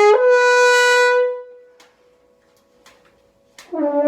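French horn slurring up to a high note, held loud on one continuous stream of air for about a second and then fading out. After about two seconds of quiet, a lower note starts near the end and steps upward, the start of the next slurred run.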